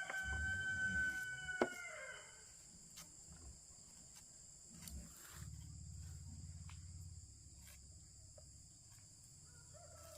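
A rooster crowing once: a long held call that tails off about two seconds in, over a steady high drone of insects.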